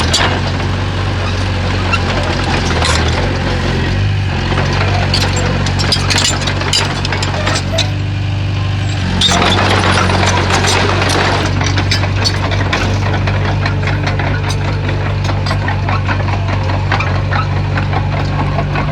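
Komatsu bulldozer's diesel engine running steadily, its note shifting about four seconds in and again near the middle, with frequent short clanks and knocks over it.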